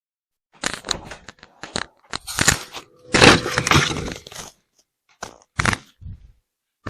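Irregular scraping and crunching handling noises from about half a second in, loudest a little past the middle, then a few short sharp knocks.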